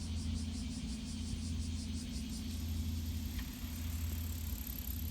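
Steady low engine rumble with a constant hum, with a faint rapid high-pitched pulsing that fades out about halfway through.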